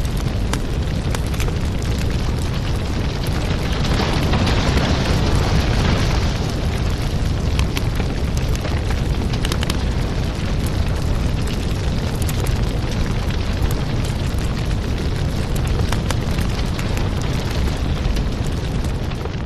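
Fire burning in a fireplace: a steady low rumble of flames with frequent small crackles and pops. It swells a little fuller about four seconds in.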